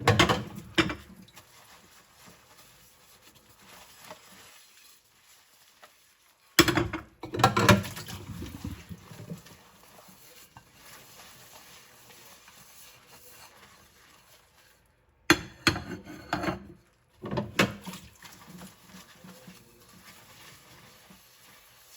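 Ceramic plates clattering and clinking against each other and the sink as they are rinsed and stacked, in four short bursts with quiet stretches between.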